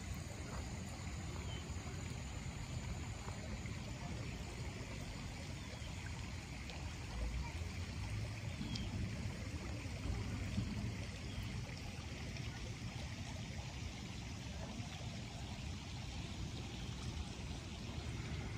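Light rain falling on a pond's surface, a steady, even hiss of drops.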